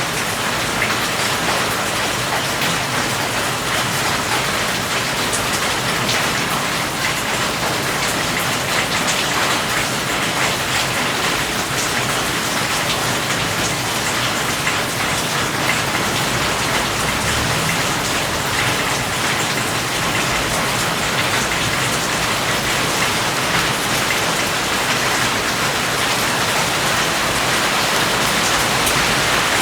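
Steady heavy rain falling on a surface, a dense even hiss with many individual drop taps.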